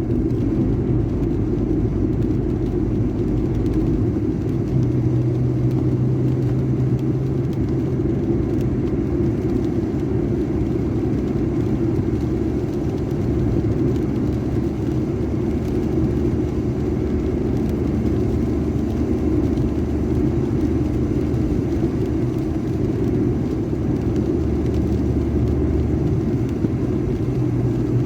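A steady low rumble with a faint underlying hum, continuous and even throughout.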